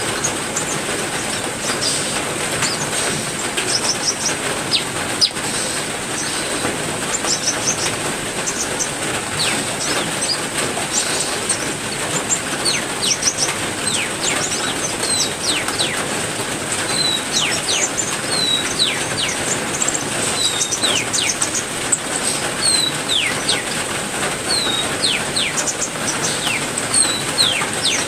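Steady heavy rain with many small aviary birds chirping over it: quick, high down-slurred chirps and short hooked notes, coming thicker in the second half. A thin, steady high tone runs beneath.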